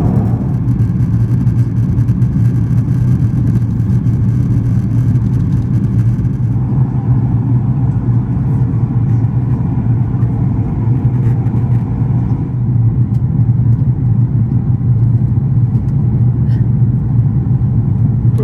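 Steady cabin noise of an Airbus A340-600 in flight: a loud, even low rumble of engines and airflow. The higher hiss drops away about a third of the way through.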